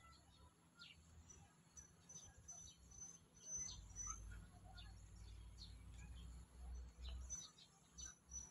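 Faint chirps of small birds: short high notes and quick downward calls scattered throughout, over a low rumble that is strongest through the middle.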